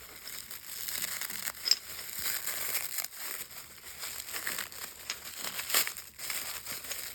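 Packing wrap being crinkled and torn open by hand, a continuous crackling with a few sharp clicks.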